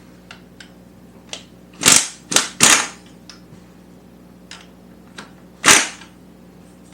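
Hand tools knocking and clacking on the bike while engine mounting bolts are loosened. There are four sharp loud knocks: three close together about two seconds in and one more near the end, with fainter clicks in between.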